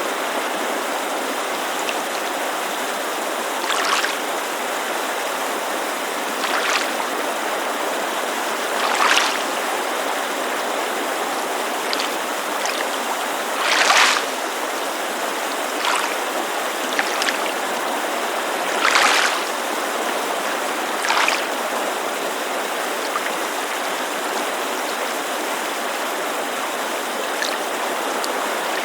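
Steady rushing hiss of a mountain creek with small water lapping against a lakeshore over it, about eight soft splashes at irregular intervals, the loudest near the middle.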